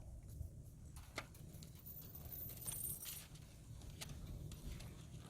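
Faint handling noise: a few scattered small clicks and clinks, with a brief high hiss in the middle, over a low steady rumble.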